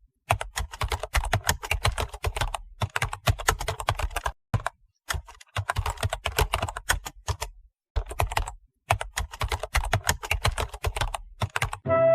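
Rapid keyboard typing clicks, in several runs broken by short pauses.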